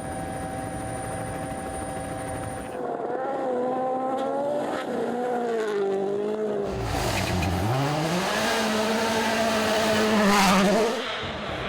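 Rally car engines at full work on a stage. The engine note holds steady at first, then rises and falls with gear changes and lifts, dips sharply about seven seconds in, climbs back to a high steady pitch, and drops again near the end.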